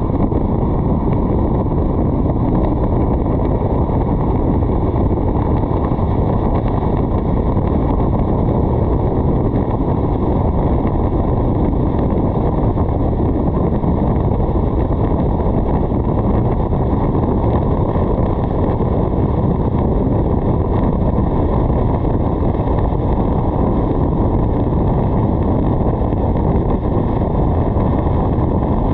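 Steady wind rushing over a roof-mounted GoPro 8 on a moving car, mixed with road noise: a loud, even, low rumble with no breaks.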